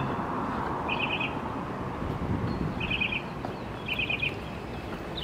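A bird calling in short quick runs of four or five high notes, repeated every second or two, over a steady background rumble.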